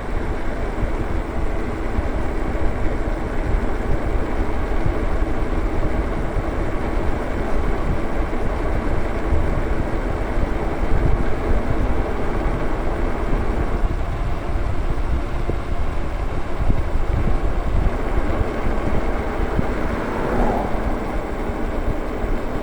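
E-bikes ridden at speed: low wind rumble on the microphone and tyre noise, with a steady hum from the electric hub motors. A brief rising tone comes near the end.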